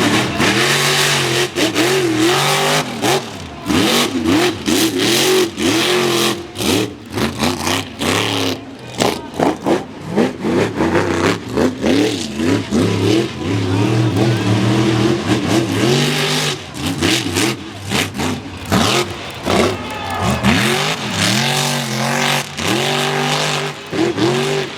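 Supercharged mega mud truck engine revving hard at wide open throttle, its pitch climbing and falling again and again, with many brief sharp drops in the sound.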